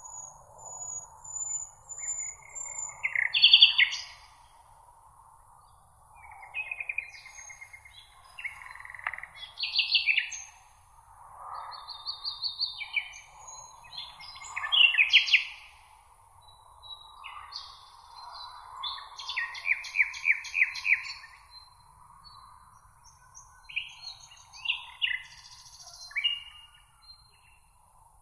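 Several songbirds singing and calling in a meadow, with overlapping short songs, chirps and trills, some made of rapidly repeated notes. A faint, steady high-pitched hiss and a soft background hum run underneath.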